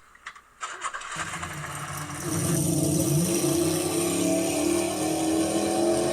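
A motor vehicle engine running. After about a second of near silence it builds up, then holds loud and steady from about two seconds in, with a brief rise in pitch partway through.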